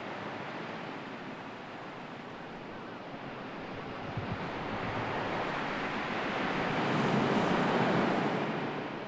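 Sea waves washing on the shore, one wave swelling to its loudest about seven to eight seconds in and then drawing back.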